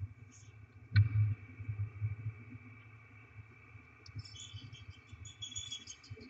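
Inside a barn owl nest box: low bumps and scuffles of the owls moving on the box floor, a sharp knock about a second in, and a run of high, short chirps near the end, over a steady electrical hum.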